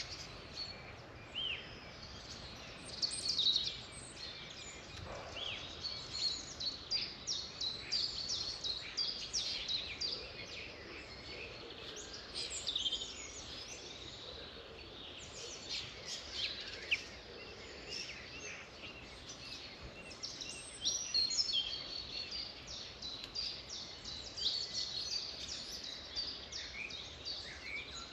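Several songbirds singing and chirping at once, a continuous chorus of quick high chirps and trills over a faint background hiss.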